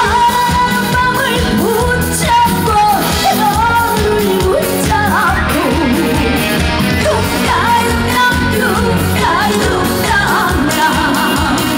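Live trot music played loud on a festival stage: a woman singing with vibrato over a full band with a steady drum beat.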